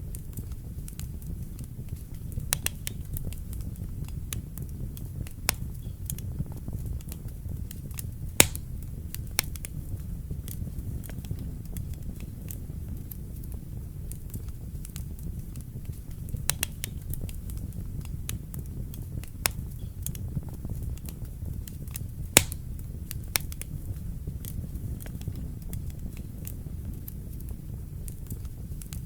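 Wood fire burning in a fireplace: a steady low rumble with scattered sharp crackles and pops, the loudest two about a third of the way in and again about three quarters of the way in.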